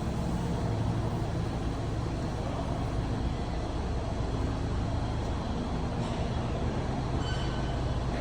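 A vehicle running steadily: a constant low engine hum under an even rumble.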